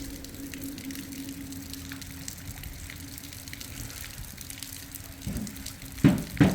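Water running or gushing steadily, with a faint steady hum in the first two seconds. A few sharp knocks come near the end.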